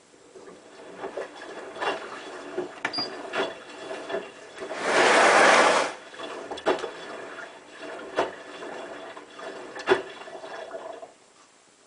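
Hotpoint WT960 washing machine taking in water: a rushing flow with scattered clicks and knocks, a loud surge of water about five seconds in, cutting off sharply about eleven seconds in.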